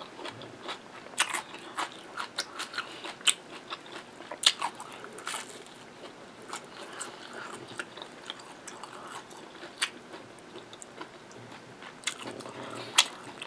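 A person chewing a mouthful of naan and curry, with sharp mouth clicks and smacks at irregular intervals.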